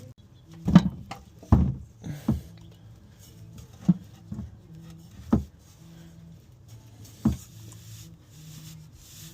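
Irregular knocks and clunks, about seven sharp ones spread over several seconds, from hands and tools working at the oil filter of a 1961 Chevy Impala's engine, over a faint steady low hum.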